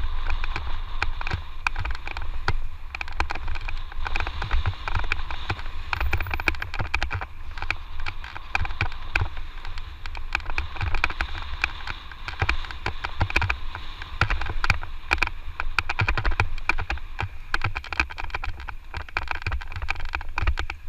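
Electric mountain bike ridden over a rough dirt trail: a continuous rattle and clatter of the bike and tyres over the ground, with wind rumbling on the microphone.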